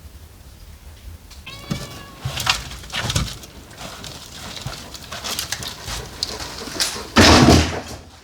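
A cat meows once, briefly, amid scattered knocks and rustling. A loud, short noisy burst comes near the end.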